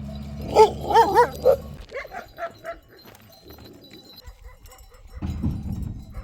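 An animal calling: four loud calls in quick succession, each bending up and down in pitch, then several fainter ones.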